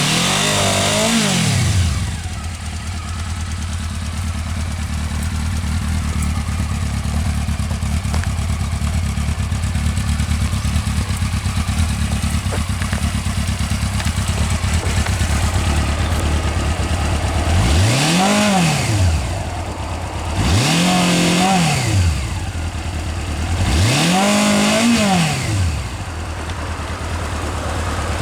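Honda CB400Four NC36 inline-four engine through its stock exhaust, settling back from a rev to a steady idle, then blipped up three times in quick succession near the end, each rev rising and falling back to idle.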